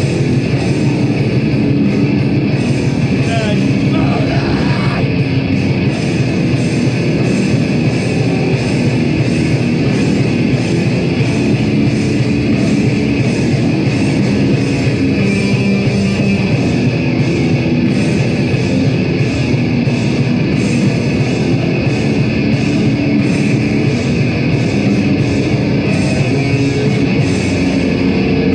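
A heavy band playing loud live music: distorted guitars and drums pounding on without a break.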